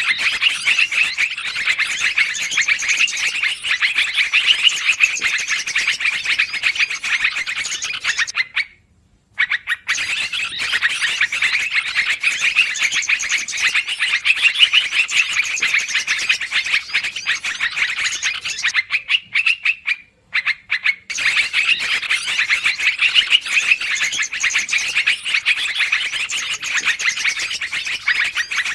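Yellow-vented bulbuls (trucukan) chattering densely and rapidly in a looped bird-lure recording, with a brief gap about nine seconds in and another about twenty seconds in.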